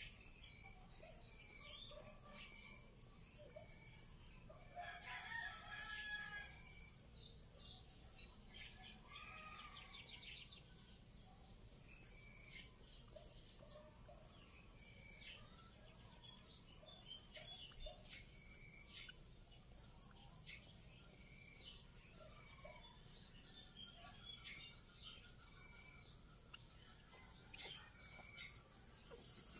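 Birds calling: a run of three or four quick high chirps repeated every few seconds, with a longer, lower call about five seconds in.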